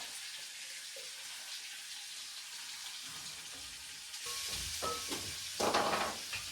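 Bacon, mushrooms and tomato sizzling in pans on a stove, a steady frying hiss that grows louder after about four seconds. A brief louder noise comes near the end.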